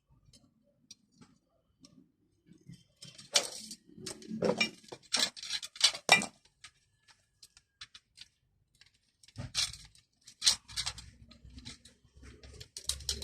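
Small metal hand tools and parts clinking and rattling as they are handled, in irregular clusters of clicks about three seconds in and again near the end.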